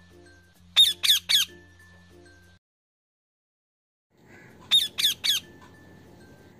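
A bird squawking in quick sets of three harsh, high calls, about a second in and again near the end, over a faint steady hum. The sound cuts out completely for a moment in the middle.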